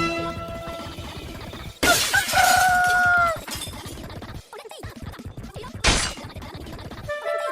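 Sound-effect crash like glass shattering: a sudden loud smash about two seconds in, with a held pitched tone that bends at its start and fades after about a second and a half, then a second short, sharp crash near six seconds.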